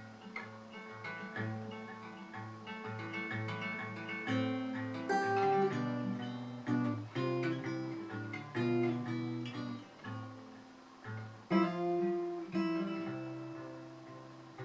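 Acoustic guitar playing an instrumental passage, picked and strummed notes over a repeating low bass note.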